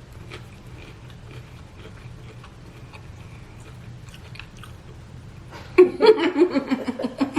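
Chewing and biting into crispy fried chicken, with faint scattered crunches. About six seconds in, a louder burst of voice sounds over the eating.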